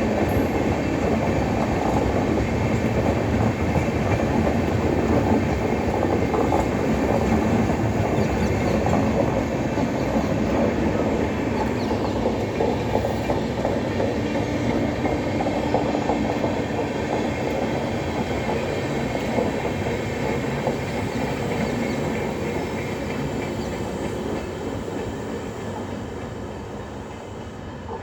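Passenger express train running on the track, its wheels clattering over the rails with a steady rumble, gradually fading over the last several seconds.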